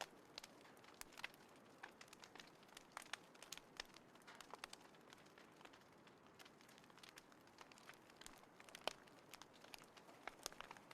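Small wood fire crackling in a compact folding fire pit: faint, irregular pops and snaps over a soft hiss.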